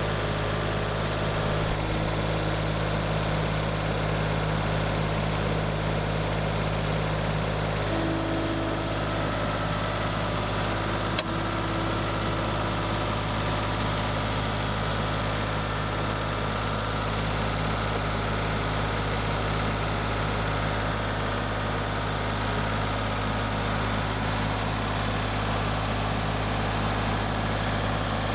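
An engine idling steadily with an even low drone, and a single brief click about eleven seconds in.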